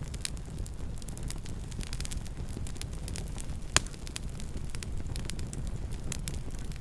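Wood fire crackling: many small sharp pops and snaps over a steady low rumble, with one much louder pop a little past the middle.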